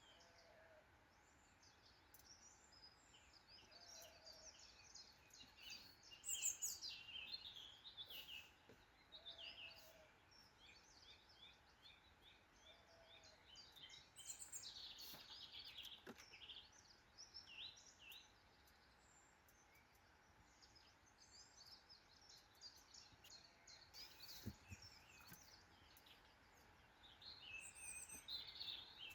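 Faint woodland birdsong at dusk: several birds chirping and trilling in overlapping phrases, with a lower call repeated every few seconds in the first half.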